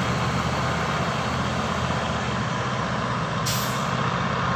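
Heavy diesel truck engine running steadily with a low hum. A short hiss cuts in about three and a half seconds in.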